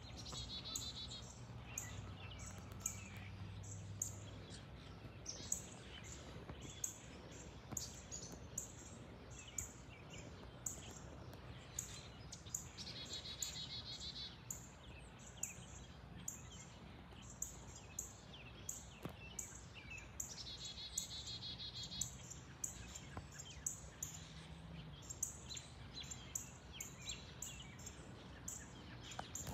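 Small birds chirping on and off, with one songbird's fast trill repeated three times, once every seven or eight seconds. Under it runs a faint low hum.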